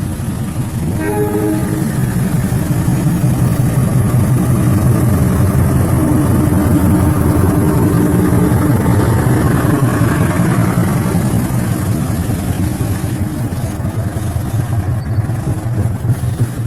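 KAI CC206 diesel-electric locomotive running past with its train, a short horn blast about a second in, then a heavy low engine and wheel rumble that swells through the middle and eases off near the end.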